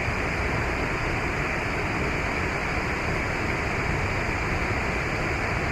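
Steady rush of a waterfall and stream, an even hiss-like roar of running water.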